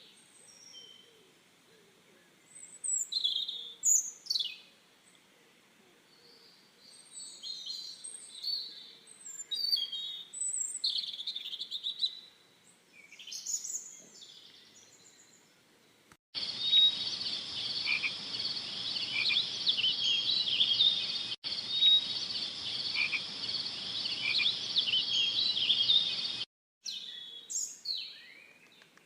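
Birds calling in scattered short chirps and whistles. About halfway through, the sound switches abruptly to a dense, continuous chorus of high calls for about ten seconds, which stops suddenly before the scattered bird calls return.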